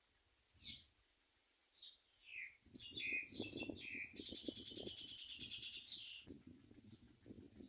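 Common mynas calling at the nest: a few short, falling chirps, then, from a little under three seconds in, about three seconds of loud, rapid, harsh chattering, typical of nestlings begging as they are fed. Rustling of the birds moving in the nest goes with the chattering and dies away near the end.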